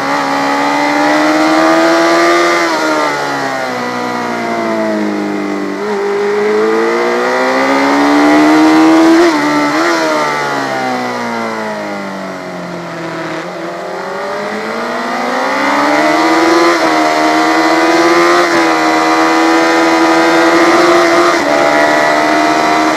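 A motorcycle engine running hard under load, its pitch climbing and falling several times as it speeds up and slows, with a long rise in the middle and a steady high note near the end.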